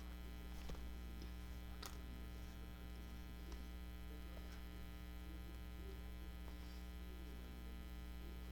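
Steady electrical mains hum with a few faint small clicks, likely from hands handling paper and thread.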